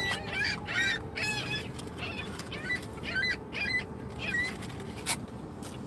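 Seagulls squabbling, giving a string of short calls, several in quick succession at times. A single sharp click comes near the end.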